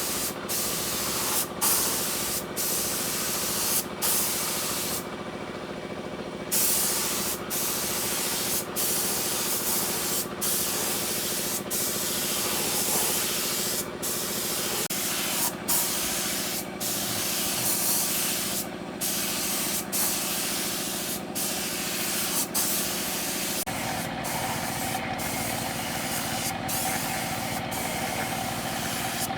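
Spray gun hissing in a long series of passes, cut off briefly between them, over a steady engine or compressor hum that shifts in pitch twice.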